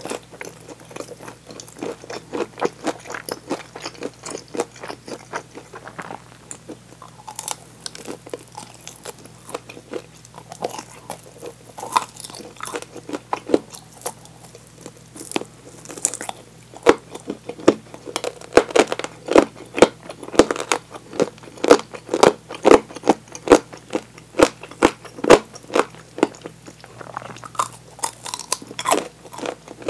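Crunching bites and chewing of crispy fried chicken drumsticks, a rapid run of crunches that grows loudest over the second half.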